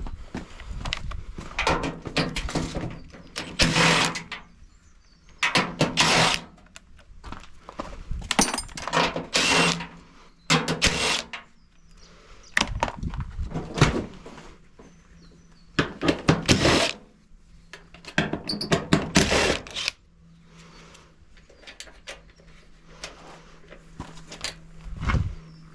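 Irregular knocks, thuds and metal clatter from a washing machine being dismantled by hand, with a quieter stretch near the end.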